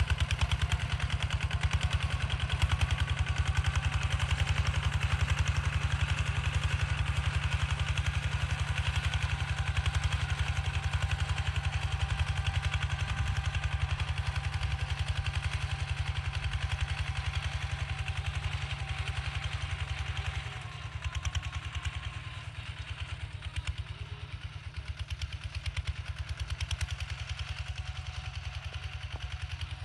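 Kubota ZT140 walking tractor's single-cylinder diesel engine running steadily while ploughing, with a fast, even beat. About 20 seconds in it gets somewhat quieter.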